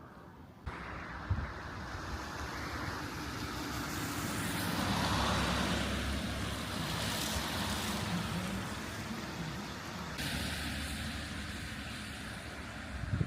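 Road traffic noise: a vehicle passing, the rushing sound swelling to a peak about halfway through and then fading.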